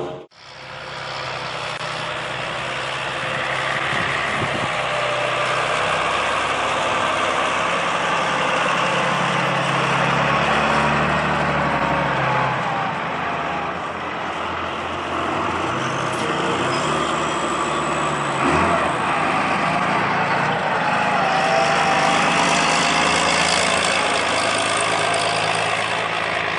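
Farm tractor engine running steadily during haylage work, with a wavering whine from the working machinery.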